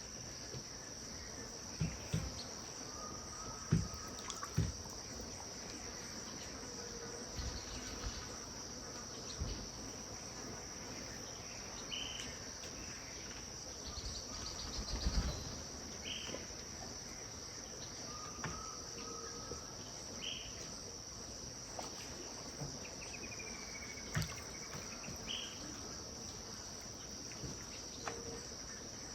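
Riverside dusk ambience: a steady high insect drone runs throughout, with scattered bird calls over it: short repeated notes and, near the end, one long swooping call. A few soft low bumps and water sounds come now and then.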